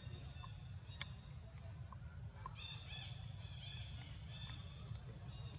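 Newborn pigtail macaque crying: a run of short, high, squeaky calls that rise and fall, starting about halfway through, over a steady low rumble.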